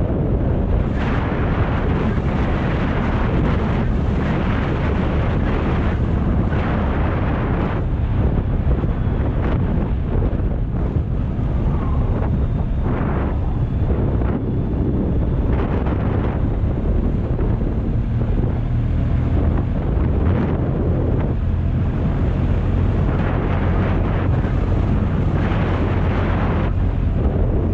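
Wind rushing over the microphone during a motorcycle ride, swelling and easing every second or two, over the steady low drone of a BMW R 1250 GS's boxer-twin engine.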